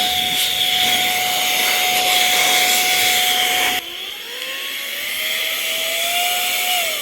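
Air duster blowing dust out of a PC case: a loud, steady rushing hiss with a constant whine that cuts off about four seconds in, followed by a quieter hiss with a slowly rising whine that drops near the end.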